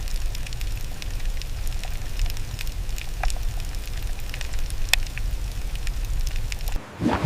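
A steady low rumble with many scattered, sharp crackling clicks, which cuts off suddenly near the end.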